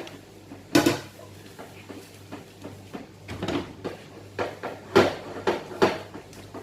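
Dishes being washed by hand in a sink: a plate and utensils knocking and clinking in scattered, irregular strokes, with a sharp knock about a second in and a run of knocks in the second half.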